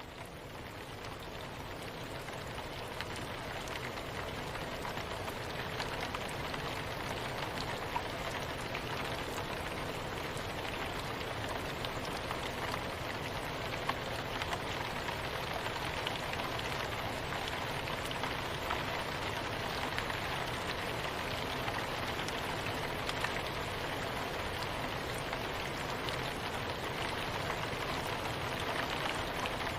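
Steady rain falling, a dense even patter with scattered louder drops, fading up over the first few seconds and then holding steady.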